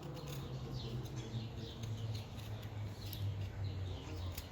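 Folding knife slicing into a stick of fatwood, in a run of short, squeaky scraping strokes and small clicks, with a steady low hum underneath.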